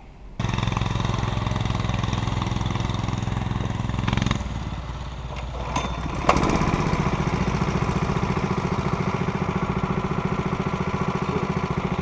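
Small gasoline engine of a homemade motorised rail cart running, the note changing about four seconds in. A sharp knock comes about six seconds in, and the engine then runs steadily.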